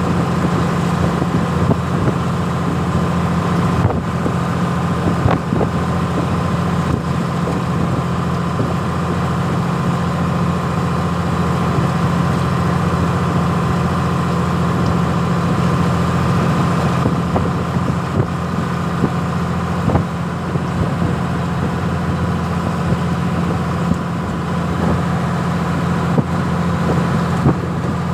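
A ship's engine running steadily: a constant low drone with a steady hum above it and no change in speed.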